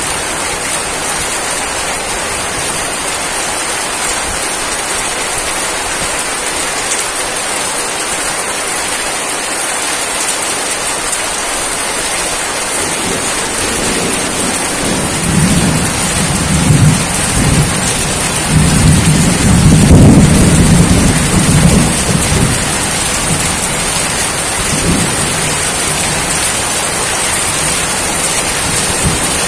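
Steady rain falling, with a low rumble of thunder that builds about halfway through, is loudest about two-thirds of the way in, then fades away.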